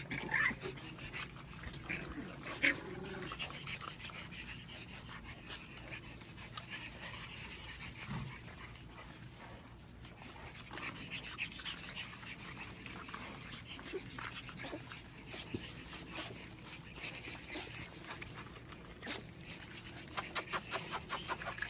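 French bulldog puppies play fighting, with many scattered scuffling clicks and a few short whines near the start.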